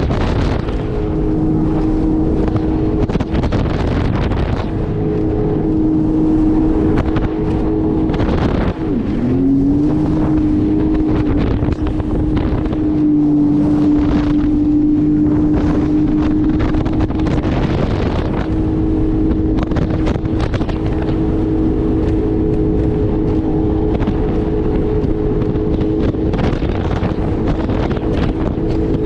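Jet ski engine running at a steady pitch. About nine seconds in the revs drop sharply and climb back, with wind buffeting the microphone throughout.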